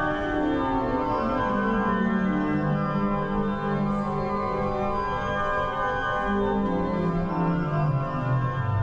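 Church organ playing slow, sustained chords, with the bass moving to a new note every few seconds.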